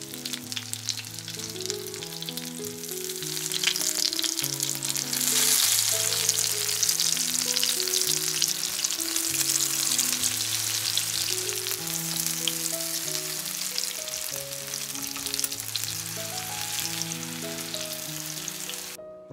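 Breaded zucchini halves frying in hot oil in a pan, a dense crackling sizzle that grows louder about five seconds in. Soft background music with held notes plays underneath.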